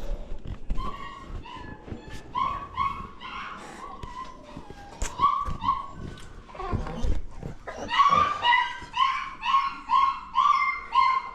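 A dog barking repeatedly in short runs of high yaps, with the quickest run of barks in the last few seconds.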